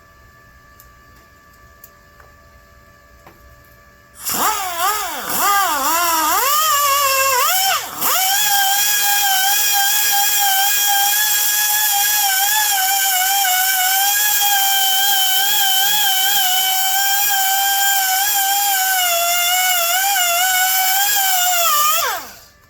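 Electric grinder starting about four seconds in, its pitch dipping and recovering several times as it is pressed into the metal, cutting out for a moment, then running steadily under load on the weld. Near the end it switches off and winds down with a falling pitch.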